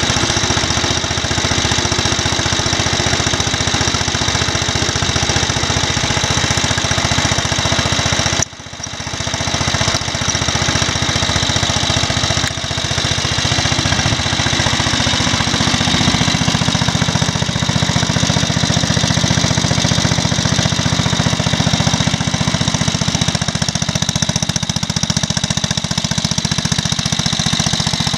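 Vintage Wisconsin AEH single-cylinder air-cooled engine running a generator at steady speed with a rapid, even firing beat; it runs well now that its ignition timing has been set right. There is a brief sudden dip in level about eight seconds in.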